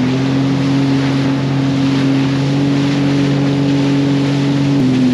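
Jet ski engine running steadily under way, with wind and water rushing past. The engine note drops slightly near the end.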